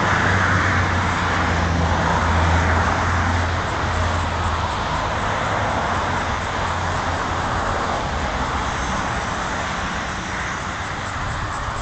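Motor vehicle noise: a low engine hum under steady road-traffic rush, strongest at first and slowly fading.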